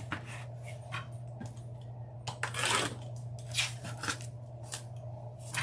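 Deco mesh being pulled out and handled, a series of short crinkly rustles with a longer one about halfway through, over a steady low hum.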